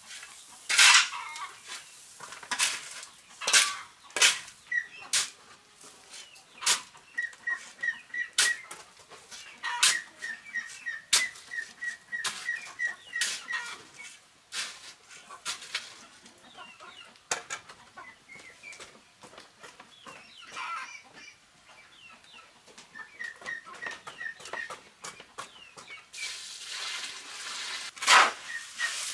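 Chickens clucking in quick runs of short, high notes, over a series of sharp, irregular knocks and taps that are loudest in the first few seconds and near the end.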